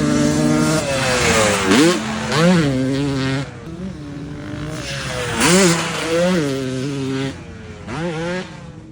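Dirt bike engine revving, its pitch sweeping sharply up and dropping back again and again, about five times.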